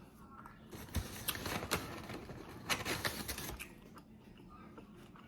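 Close-miked eating and handling noises: a run of crisp clicks and crackles, starting about a second in and lasting a couple of seconds before it quietens.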